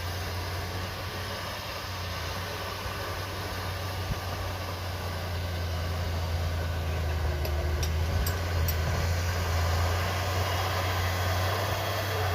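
Heavy earthmoving machine's diesel engine running steadily with a low hum, growing gradually louder, with a few faint clicks about two thirds of the way through.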